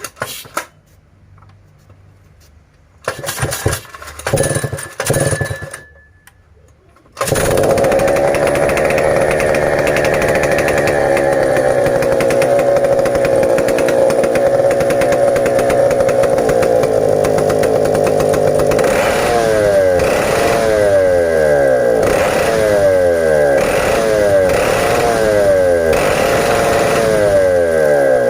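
Stihl 070 two-stroke chainsaw being pull-started: a couple of short bursts, then the engine catches about seven seconds in and runs steadily. In the second half its speed repeatedly swells and falls back, about once a second.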